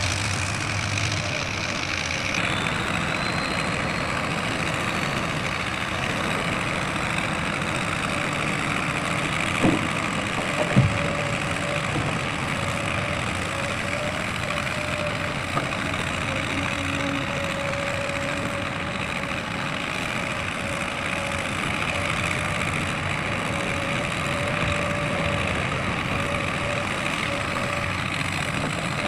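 Heavy diesel machinery running steadily, with a faint held whine through the middle and two short knocks about ten seconds in.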